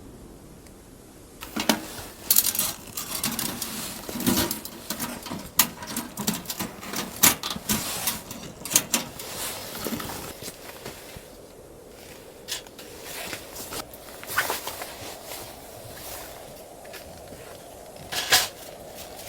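Irregular clicks and knocks, like objects being handled and set down, busiest in the first half, with a few louder knocks later.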